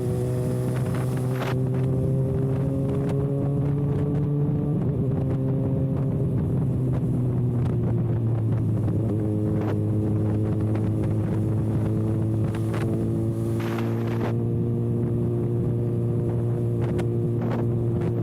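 Kawasaki ZX-6R's inline-four engine running at a steady cruise through an open exhaust with no silencer canister, its pitch easing down and back up a couple of times, with wind buffeting the microphone.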